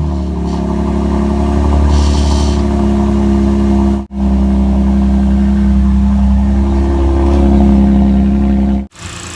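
Lexus IS250's 2.5-litre V6 engine running steadily at a constant pitch, freshly filled with new oil. The sound cuts out abruptly for a moment about four seconds in and again near the end.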